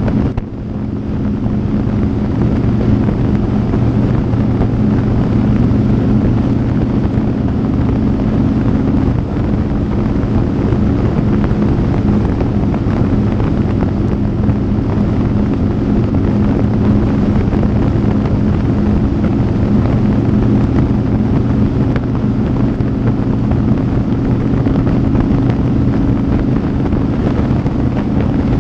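Motorcycle engine running at a steady cruising speed, with wind noise on the microphone. The level drops briefly just after the start and dips slightly about nine seconds in.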